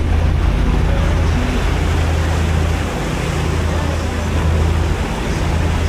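Boat engine running with a steady low drone, under a constant rush of wind and water noise.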